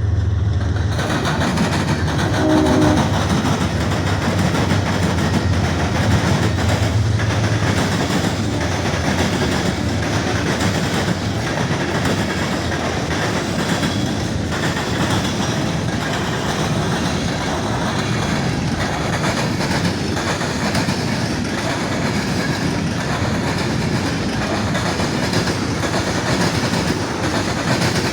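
Norfolk Southern mixed freight train rolling past: the locomotive's low engine drone at first, then the steady rumble and clickety-clack of freight cars' wheels on the rails.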